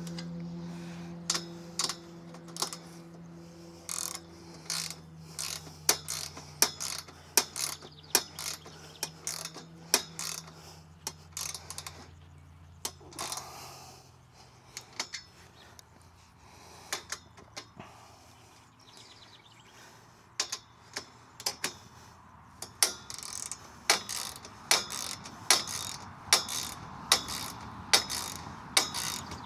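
Ratchet wrench clicking in runs of short strokes as bolts are tightened on a steel equipment mount. A low metallic ring fades out over the first few seconds.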